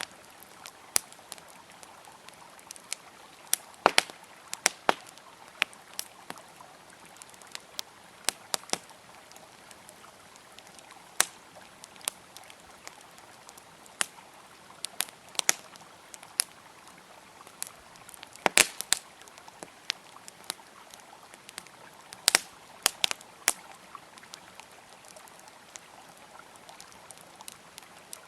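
Campfire crackling with irregular sharp pops, sometimes singly and sometimes in quick clusters, over the steady rush of a flowing river.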